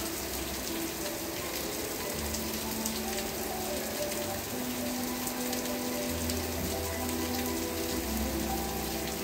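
Steady rain falling, with scattered fine drop ticks, under soft slow music of held low notes and a gentle melody.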